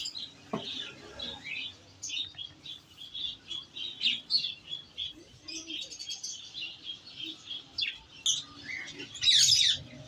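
Small parrots chattering in a steady stream of quick, high chirps, with a louder harsh call about nine seconds in.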